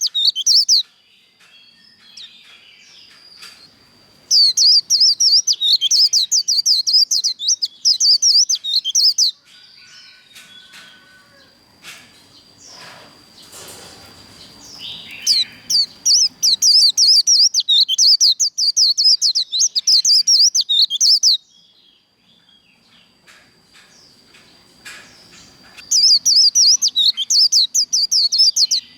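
White-eye singing its fast, high twittering 'líu' song, the rapid competition-style song, in four bursts of a few seconds each, the longest about six seconds, with short pauses between them.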